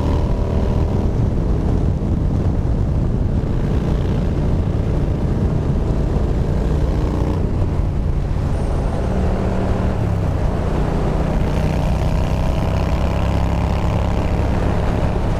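Yamaha Bolt's air-cooled V-twin running through a Bassani Radial Sweepers exhaust while riding, its revs falling in the first second, then changing pitch again through the corners.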